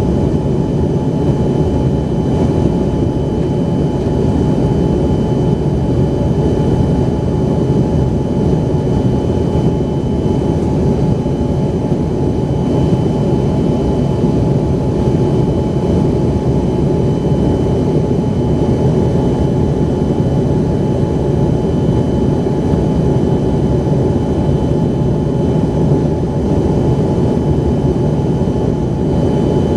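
Steady cabin drone of an Embraer ERJ-135's rear-mounted Rolls-Royce AE 3007 turbofans, heard from inside the passenger cabin. It is an even rushing noise with a faint steady whine.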